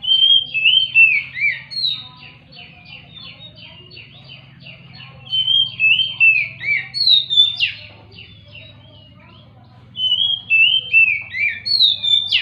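Oriental magpie-robin (kacer) singing: three bursts of loud, clear whistled phrases of falling notes, each about two seconds long, over a steady background of rapid, fainter repeated chirps.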